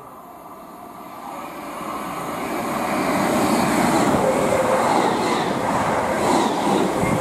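Electric multiple-unit passenger train running in alongside the platform. Its rumble builds over the first three seconds or so, then holds loud and steady, with faint whining tones over it.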